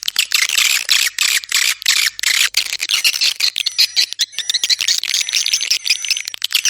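Swiftlets chattering: a dense, continuous stream of rapid clicks and high chirps, the kind of swiftlet call recording used to draw birds to a swiftlet house.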